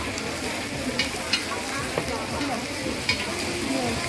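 Food frying at a street stall with a steady sizzle while it is stirred, with several sharp clinks of a utensil against the pan.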